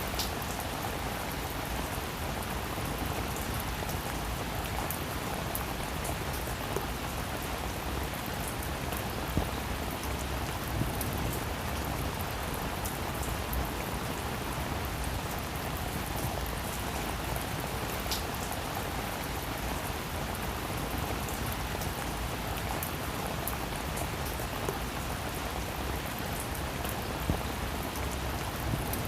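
Steady rain falling on a roof, an even hiss of many drops with a few louder individual drop ticks now and then.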